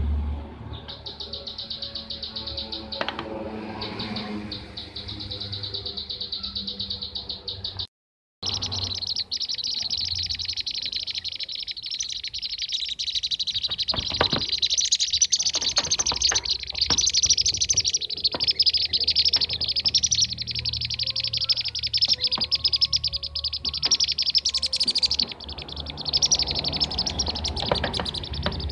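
Kirik-kirik birds (bee-eaters) calling in a dense, continuous flock chorus of rapid high chattering trills, played as a lure recording for attracting the birds. The sound cuts out completely for about half a second around eight seconds in.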